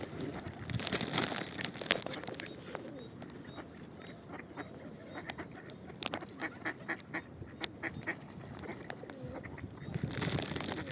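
Ducks calling with short quacks on a lake, with louder bursts of noise about a second in and again near the end.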